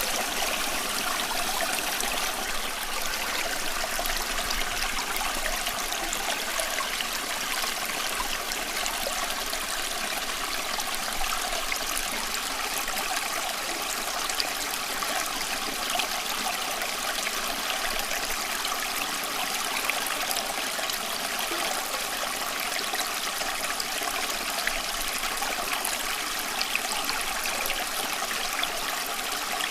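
Running water in a steady, continuous flow, with fine splashing and trickling.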